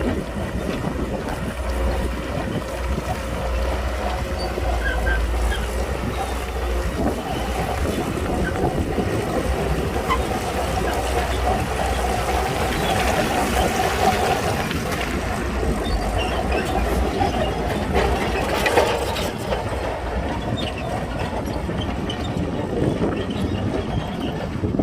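Shantui crawler bulldozer's diesel engine running steadily under work, with the rattle and clank of its steel tracks.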